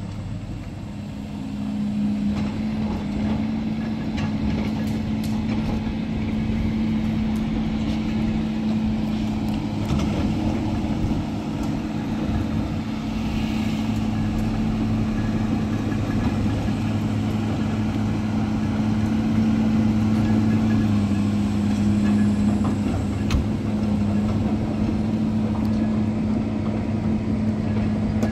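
Steady engine drone and road noise of a moving vehicle, heard from inside it; the engine note shifts slightly about 21 seconds in.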